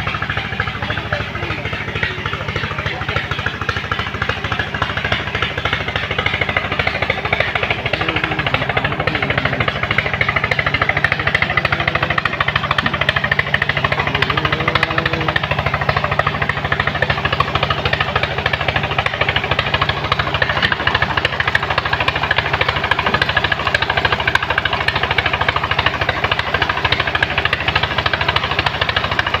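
Truck engine running steadily with a fast, hard clatter, getting a little louder about a third of the way in.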